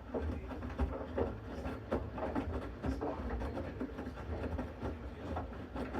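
Bosch Series 6 front-loading washing machine in its main wash: a low steady hum with irregular soft knocks and swishes as the drum tumbles the wet load.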